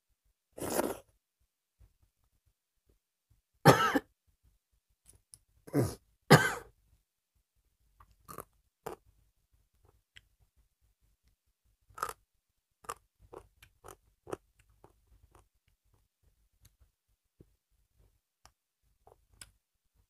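Close-miked eating sounds: mouth noises and chewing of rice and dal eaten by hand. There are four louder short bursts in the first seven seconds, then small scattered clicks.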